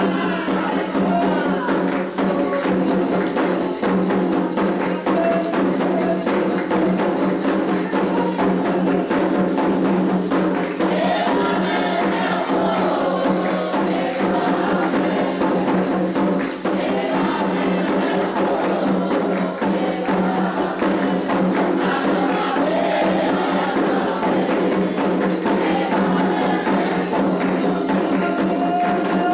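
Candomblé ritual music, the rum for Iansã: atabaque hand drums and percussion play a fast, dense, unbroken rhythm while voices sing over it.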